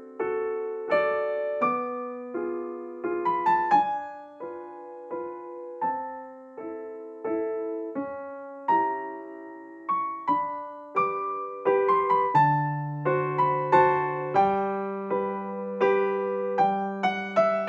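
Gentle background piano music: a slow melody of single struck notes over chords, with low bass notes joining about halfway through.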